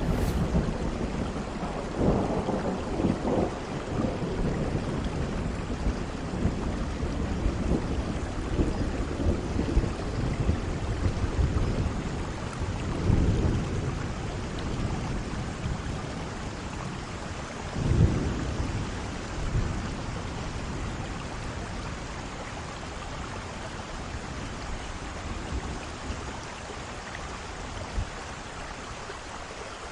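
Heavy rain falling steadily with thunder rolling through it: low rumbles a couple of seconds in, again near the middle, and a sharper clap a few seconds later, the storm easing off toward the end.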